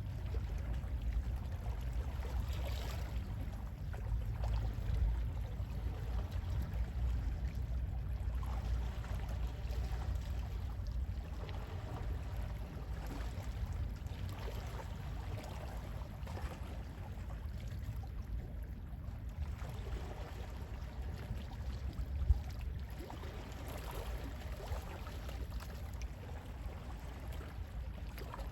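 Gentle sea waves lapping and washing, with a steady low rumble of sea wind. A single short knock comes about two-thirds of the way through.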